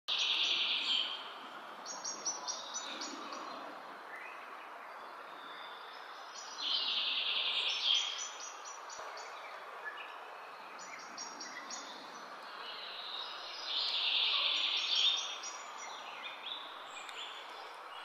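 Birds calling: a loud phrase of about a second repeats about every seven seconds, with runs of short, high chirps between, over steady background noise.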